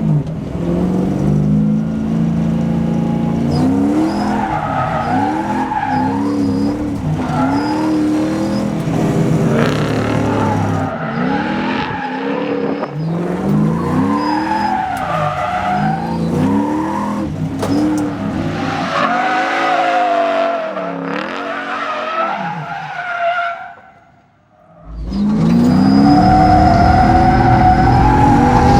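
Toyota 1UZ 4.0-litre V8 of a drift car revving up and down over and over while the car slides on track, with tyres squealing. The sound drops away for about a second near the end, then comes back at steady high revs.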